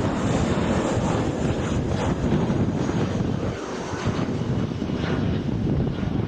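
Jet airliner engines as a plane comes in to land on the runway, with strong wind buffeting the microphone.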